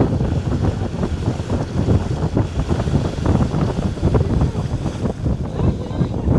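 Wind buffeting the microphone on an open boat: a rough, low rumble that gusts unevenly.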